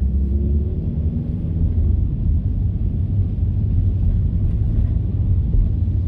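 Steady low rumble of a car driving, heard from inside the cabin: engine and road noise, with a faint steady hum in the first couple of seconds.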